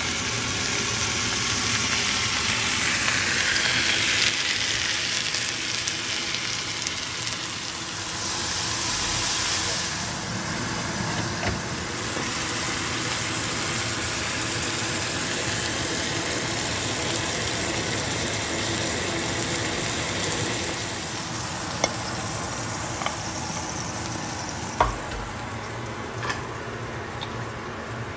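Food frying in a pan: sliced onions and then a T-bone steak sizzling in hot fat, a steady loud hiss. A few sharp clicks come near the end, as the sizzling thins out.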